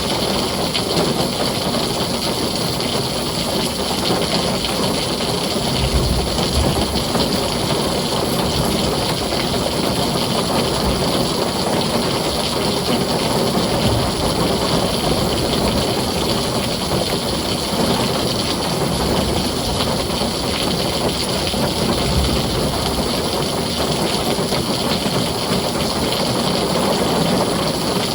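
Heavy rain drumming steadily on a tin roof, an even, unbroken roar, with two brief low rumbles, about a fifth of the way in and again past two-thirds.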